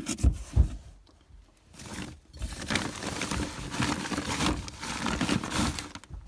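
Stored belongings being rummaged through by hand: a couple of dull thumps in the first second, then a long stretch of rustling and crinkling as things are moved and unpacked.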